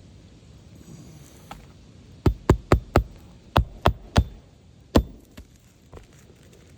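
Hammer driving roofing nails into a replacement asphalt shingle: a quick run of four blows, then three more, then a single blow.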